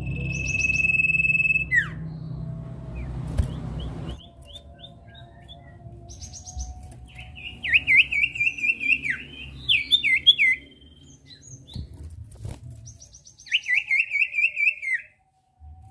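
Common iora (sirtu/cipoh) calling: a long held whistle at the start, then scattered chirps and two runs of rapid, trilled notes, one in the middle and one near the end. A low hum lies under the first few seconds.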